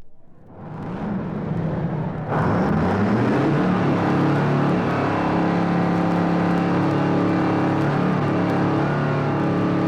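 An engine, recorded as a sound effect, swells in level over the first two seconds, jumps louder about two seconds in, and then runs steadily.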